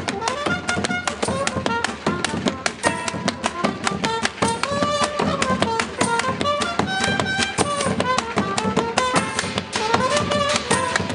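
Street band music: fast, steady percussion hits under a gliding, pitched melody line.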